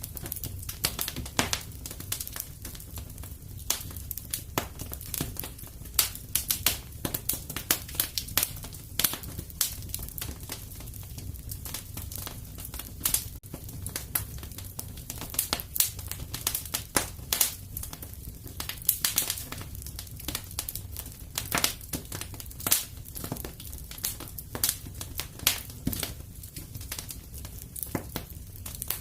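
Fire crackling in a fireplace: dense, irregular sharp pops and snaps over a low steady rumble.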